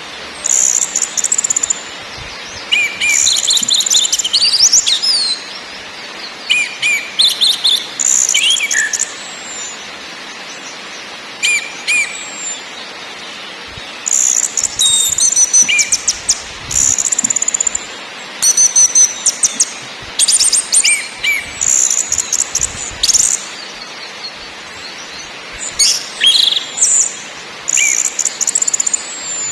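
Orange-headed thrush singing: repeated bursts of rapid, high, chattering notes mixed with short slurred whistles, phrase after phrase with brief pauses between, over a steady hiss.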